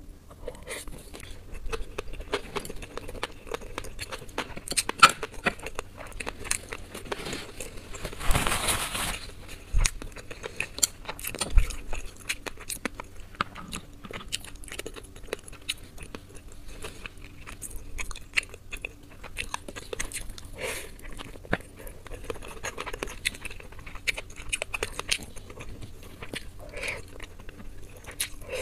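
Close-miked chewing and biting of salmon sushi topped with flying fish roe: many small wet clicks and smacks. A louder burst of noise comes about eight seconds in.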